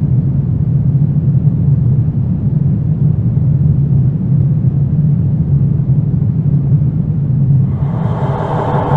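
Deep, steady rumbling drone of a horror ambience track. Near the end, a ringing tone with many overtones swells in over it, like a struck gong or bowl.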